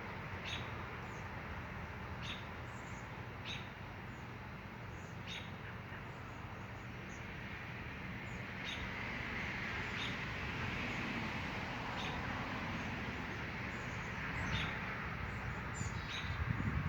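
Songbird chirping: short, high chirps repeated about every second or so, over a steady low background rumble.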